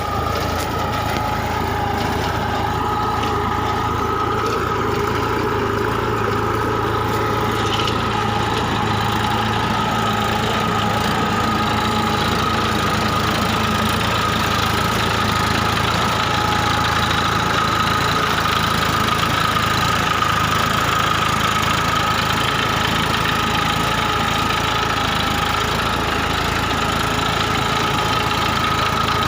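Massey Ferguson 246 DI Dynatrack tractor's diesel engine running steadily at an even speed, with a constant whine over the engine note.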